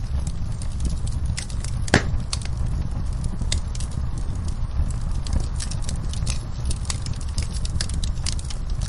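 Wood fire burning in a fireplace: a steady low rumble of flames with frequent irregular crackles and pops, one louder pop about two seconds in.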